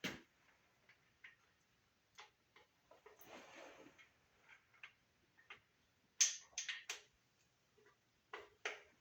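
Irregular metal clicks and taps as valve lifters are handled and set into their bores in the engine block, with a quick run of clicks about two thirds of the way through.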